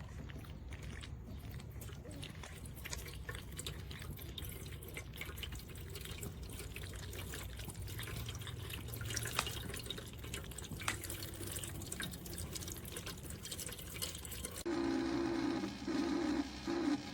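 Stainless steel cat water fountain running: water trickling and dripping steadily, with many small splashy ticks. Near the end the sound changes to a steady hum with a pulsing tone that stops and starts.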